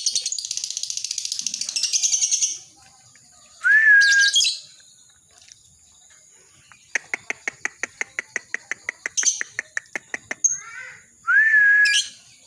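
Lovebird singing: a fast, dense ngekek chatter for the first two seconds or so. Then come two short calls that each rise and level off, with a quick run of clicks, about eight a second, between them.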